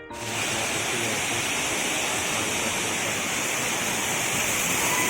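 Water of a large monsoon-fed waterfall pouring down: a steady, dense rushing noise.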